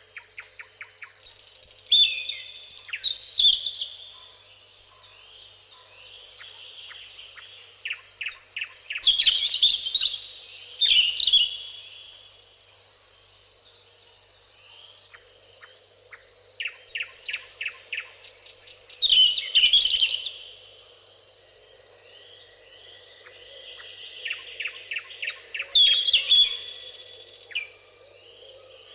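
Several songbirds singing and chirping, with loud rapid trilled phrases recurring every seven to ten seconds over a steady high-pitched tone.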